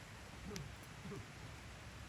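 A wood fire burning in a Picogrill, with faint scattered crackle pops. Two short, low, voice-like sounds about half a second and a second in are the loudest things.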